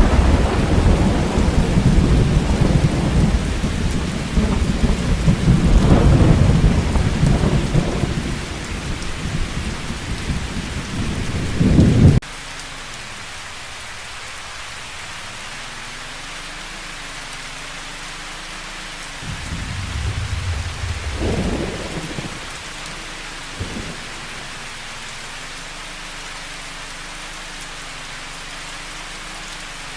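Storm rain pouring, with loud, deep rumbling for the first twelve seconds. About twelve seconds in the sound cuts abruptly to a steadier, quieter rain hiss, with another brief swell of rumbling around twenty seconds in.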